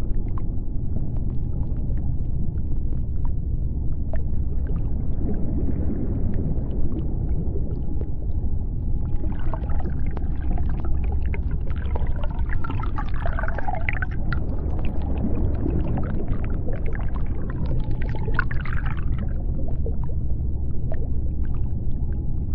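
Deep underwater ambience: a steady low rumble with scattered faint clicks. From about nine seconds in to about nineteen seconds, a series of higher wavering, gliding calls rises above it, then fades back into the rumble.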